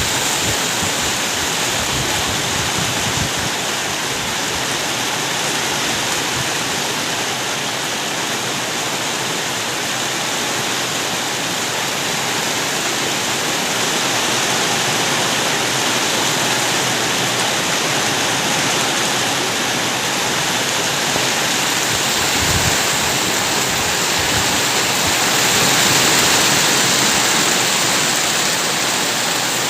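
Rain falling steadily as a dense, even hiss, swelling slightly near the end.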